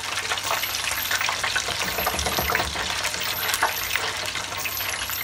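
Food deep-frying in hot oil: a dense, steady crackle and sizzle full of small pops.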